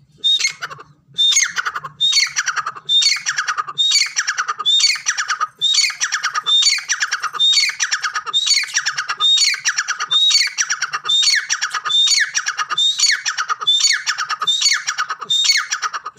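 A bird calling over and over, about once a second, each call a loud, harsh note that slides down in pitch.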